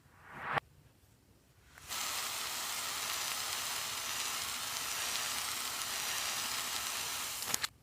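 Slime being worked, giving a dense, even crackle of tiny pops like frying, typical of floam beads popping; a short rising swoosh cuts off about half a second in, and the crackle starts about two seconds in.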